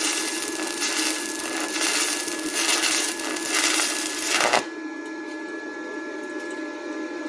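Stick-welding arc from a 6013 rod crackling and hissing as it runs a bead on steel. The arc is broken about four and a half seconds in, leaving only a steady electrical hum.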